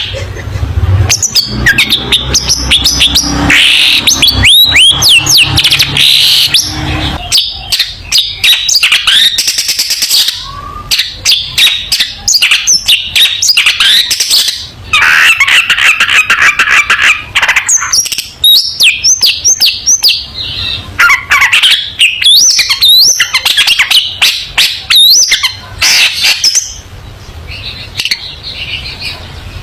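Long-tailed shrike singing a loud, continuous, varied song of rapid short notes and quick whistled glides, broken by harsh chattering passages.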